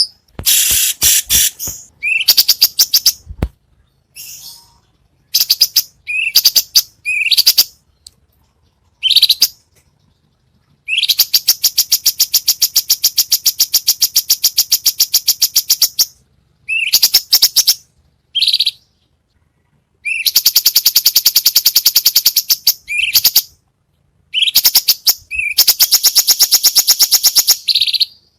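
Songbird song of the kind used as a masteran tutor for cage songbirds. It has short upward-sliding chirps and whistles, with three long, very fast rattling trills of several seconds each in the second half.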